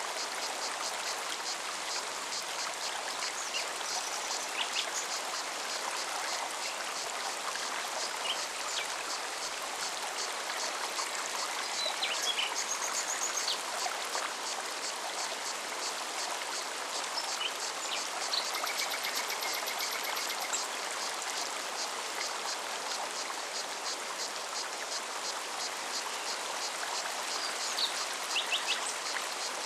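Mountain forest stream running steadily, with a cicada's fast, even pulsing buzz throughout and short bird chirps and trills here and there.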